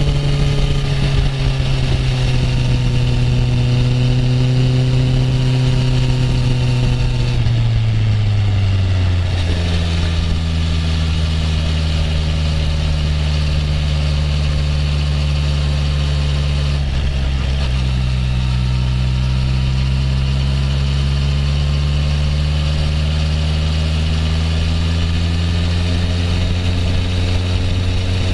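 Honda CB650F's inline-four engine running at steady cruising revs. The pitch drops about eight seconds in as the revs fall, dips briefly again around the middle, then climbs slowly toward the end.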